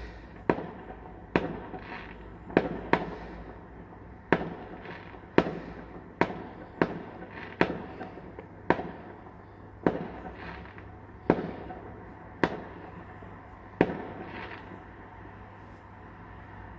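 Fireworks going off: a string of sharp bangs about a second apart, each fading out in an echo, stopping a few seconds before the end.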